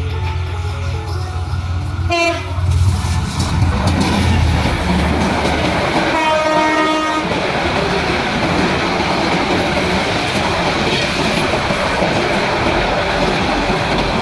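Intercity express train passing at speed, its rushing wheel-and-rail noise loud and steady. The locomotive's horn sounds briefly about 2 s in, then a longer blast of a bit over a second about 6 s in.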